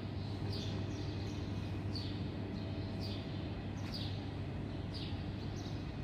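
Short bird chirps, each falling in pitch, repeating about once a second over a steady low hum.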